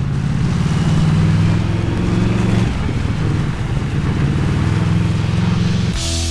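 Yamaha VMAX motorcycle's V4 engine running and revving. Its pitch dips about halfway through and rises again, with a rushing whoosh near the end.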